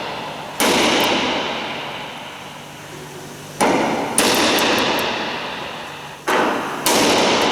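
Five hard hammer blows on metal, struck to shift a corroded screw that is seized in the wing structure, each ringing out and fading slowly. The blows come singly and then in two quick pairs.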